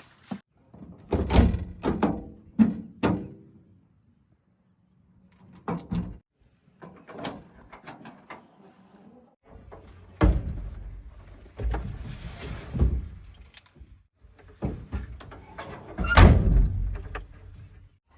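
Heavy thuds and knocks of a JCB 3DX backhoe loader loading mud into a tipper's steel body, in clusters, the loudest near the end.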